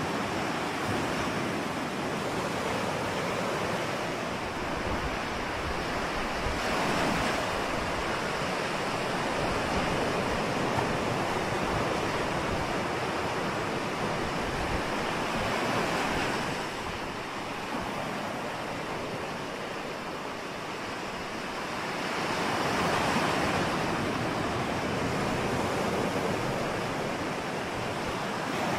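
Ocean surf: a continuous wash of breaking waves that swells and eases slowly, building to a peak about 7 seconds in, again in the middle and again around 23 seconds, with some wind noise on the microphone.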